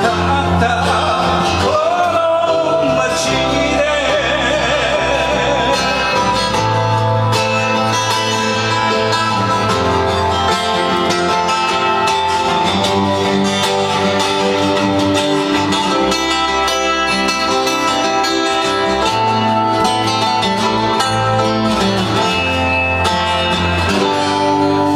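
Guitar-led band music with a steady bass line, and a held, wavering sung note in the first few seconds.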